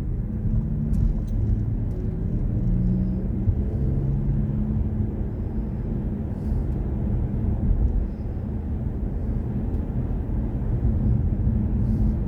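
Steady low road and tyre rumble inside the cabin of a BMW i4 M50, an electric car, as it drives off and gets under way.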